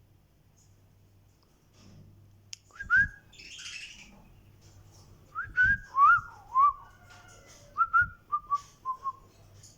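A series of short, clear whistled notes that swoop up and down, starting about three seconds in; a brief hissing rush follows the first note, and the last few notes come in quick succession, stepping slightly down in pitch.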